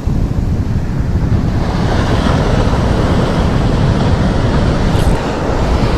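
Wind buffeting the microphone over the steady wash of surf breaking on a beach, with a brief click about five seconds in.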